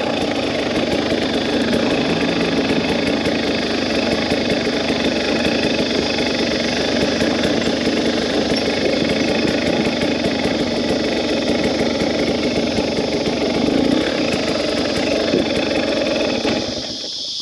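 2017 KTM 300 EXC two-stroke dirt bike engine running steadily as the bike is ridden along a dirt track; the engine note drops away near the end.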